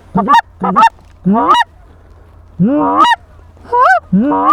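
Hand-blown goose call sounding lesser Canada goose chirps: six short, loud, rising honks in quick groups, close to the microphone.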